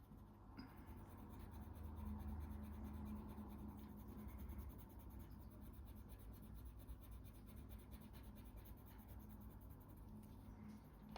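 Faint scratching of a Polychromos colour pencil on paper, worked with hard pressure to fill the paper's tooth.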